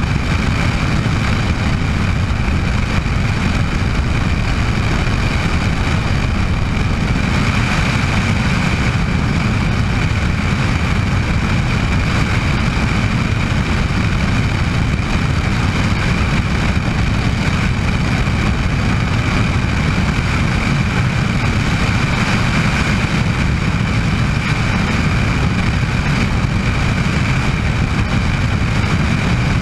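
Bell 206 JetRanger helicopter running steadily: the dense, low, rapid chop of the main rotor with a thin steady high whine from its turboshaft engine on top.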